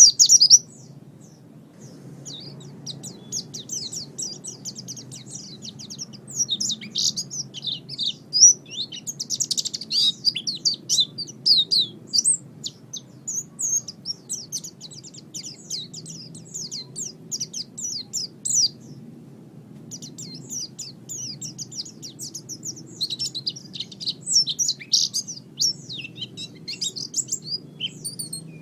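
Pleci (white-eye) singing a fast, continuous twittering song of rapid high chirps, with a short pause about two-thirds of the way through.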